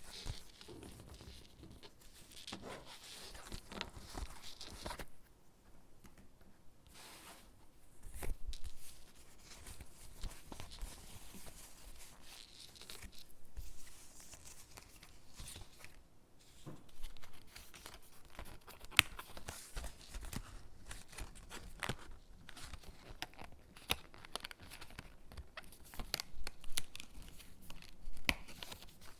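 Stickers being peeled off their backing sheet and pressed onto paper gingerbread cutouts: soft peeling and paper rustling with many scattered sharp ticks, more of them in the second half.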